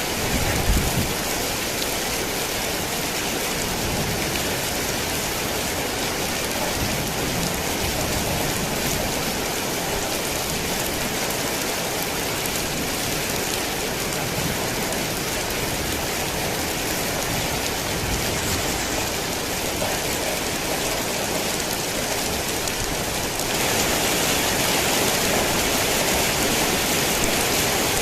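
Heavy rain falling steadily, a dense hiss of drops on surfaces. There is a brief low rumble in the first second. About 23 seconds in, the rain grows louder and brighter.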